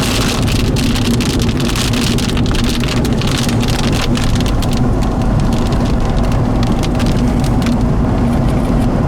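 Rain pattering on a car's roof and windshield, heard from inside the moving car over a steady low road and engine rumble. The rain eases about halfway through.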